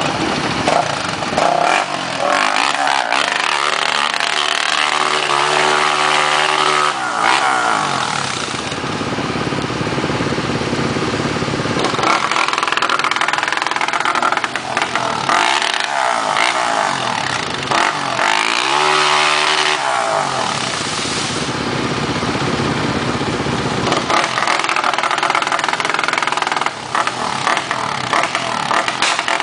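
Quad bike (ATV) engines revving, the pitch rising and falling several times over a constant loud hiss.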